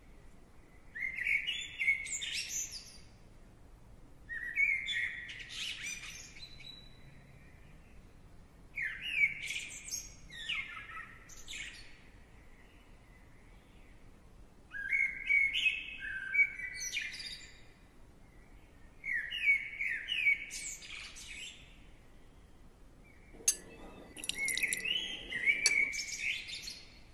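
A bird singing short, warbling phrases, one about every four seconds, six in all. There is a sharp click near the end.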